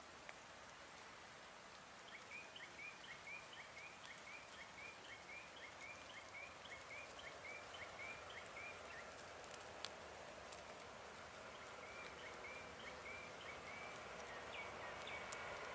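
A bird calling a quick series of short chirps, about two a second, for several seconds, then a shorter run near the end, over a faint steady outdoor hiss.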